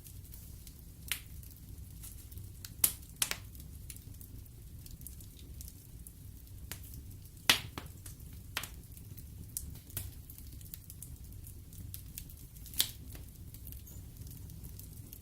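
Wood fire burning in an open fireplace: a steady low rumble of the flames with irregular sharp crackles and pops from the burning logs, the loudest pops about 3, 7.5 and 13 seconds in.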